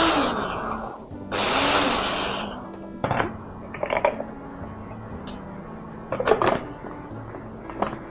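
Electric blender whirring through a thick pesto sauce, cutting off about a second in, then pulsed once more for about a second, its motor pitch rising and falling. A few light clicks and knocks follow over soft background music.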